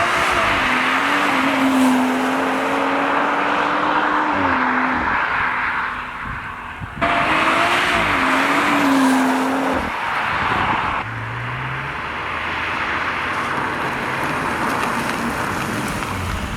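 Stock-exhaust BMW M140i, a turbocharged straight-six, driving past in three short clips: the engine note rises and falls over tyre noise, with abrupt cuts about seven and eleven seconds in. The owner finds it quiet for the car on the stock exhaust.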